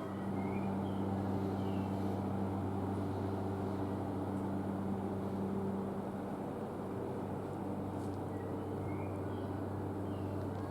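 Steady low electrical hum of a train standing at the station platform, its tone unchanging throughout. Short bird chirps come through faintly now and then.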